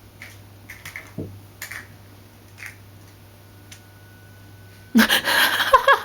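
Light, scattered taps and clicks of a kitten pouncing on and batting a toy bird on a string, with one soft thud. A person's voice breaks in loudly about five seconds in.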